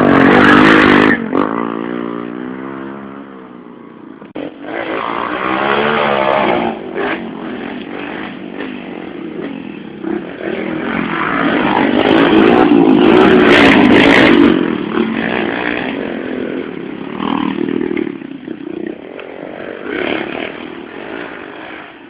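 110cc motorcycles racing on dirt and sand, engines revving with pitch rising and falling with the throttle. Bikes pass loudly about a second in and again from about twelve to fourteen seconds, with quieter engine noise between the passes.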